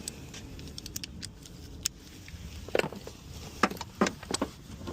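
Hand tools clinking and knocking against metal as a wrench or socket is worked at a bolt: a handful of irregular sharp clicks, several close together in the second half.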